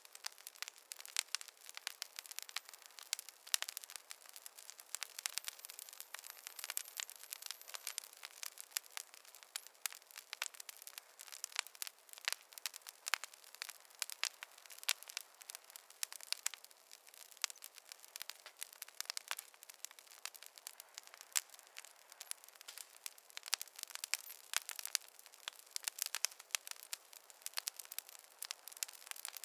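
Wood campfire crackling: a dense, irregular run of pops and snaps over a soft hiss.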